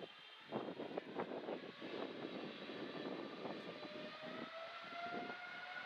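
Boeing 777-300ER's GE90 jet engines spooling up for takeoff: a crackling jet rumble with a whine that slowly rises in pitch.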